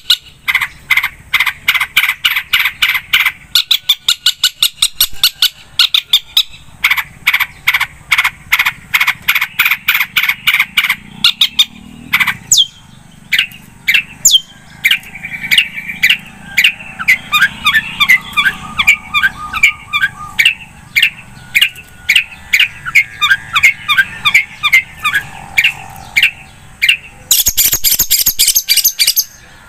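Long-tailed shrike (cendet) singing loudly. Runs of short harsh repeated notes, several a second, break into a varied twittering, gliding phrase through the middle, then a fast high trill near the end.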